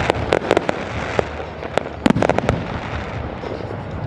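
Fireworks going off overhead: a rapid run of sharp cracks and pops in the first second, another cluster about two seconds in, over a continuous rumble of bursts.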